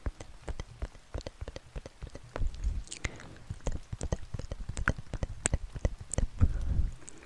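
Close-miked ASMR trigger sounds: a dense run of sharp, irregular clicks and crackles, with a low rumble twice, about two and a half seconds in and again near the end.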